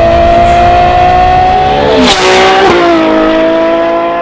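Ferrari 812 Superfast's naturally aspirated 6.5-litre V12, with a Novitec exhaust, at full throttle, revs climbing steadily. About two seconds in, a quick upshift drops the pitch with a brief crack of noise, then the revs climb again.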